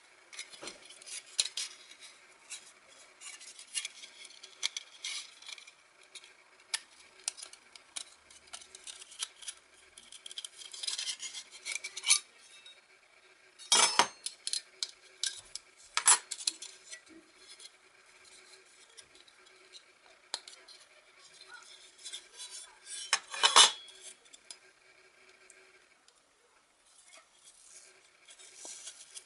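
Thin stainless-steel plates of a small folding fire pit clinking and scraping against each other as they are handled, with three louder metal clanks.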